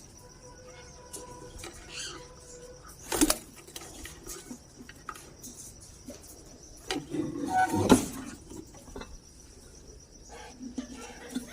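Faint bird chirps over a steady high-pitched whine, broken by two sharp knocks about three and eight seconds in.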